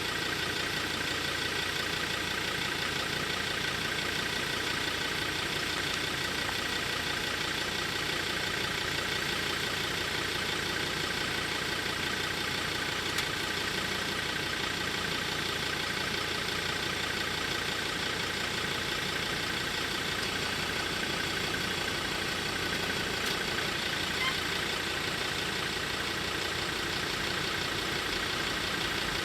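A Green Cargo freight train passing the level crossing, its wagons running steadily over the rails with a few steady high tones above the noise of the wheels.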